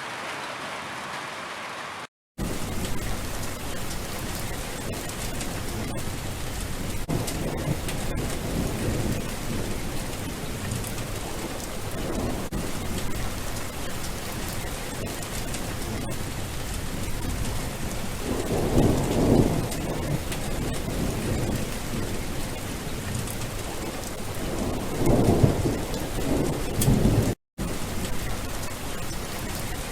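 Steady heavy rain with low thunder rolling in twice, about two-thirds of the way through and again near the end. The sound drops out for an instant twice, once in the first seconds and once near the end.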